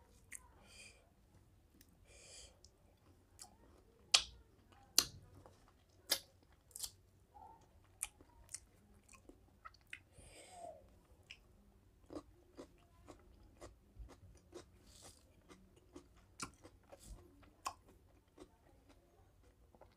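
Close-miked chewing of rice and mutton curry, with wet mouth smacks and many sharp clicks, the loudest a handful about four to seven seconds in.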